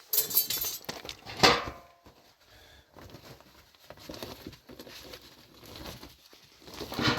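Hard objects knocking and clinking, with a loud ringing clink about a second and a half in and another knock near the end.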